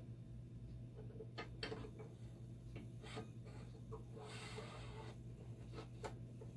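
Scattered light clicks and knocks from dialysis-machine parts being handled, with a brief rustle about four seconds in, over a steady low hum.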